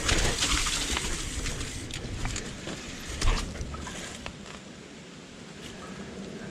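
Mountain bike on a dirt trail: tyre noise with scattered clicks and rattles, loudest in the first second or so, and a single thump about three seconds in.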